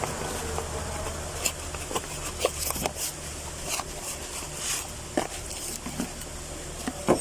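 Scattered light clicks and knocks of a new fuel pump and its parts being handled, about eight at irregular intervals, the loudest near the end, over a steady low hum.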